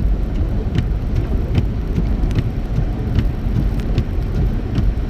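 Car cabin road noise at highway speed on a wet road: a steady low rumble with tyre hiss. A light tick repeats evenly, a little faster than once a second.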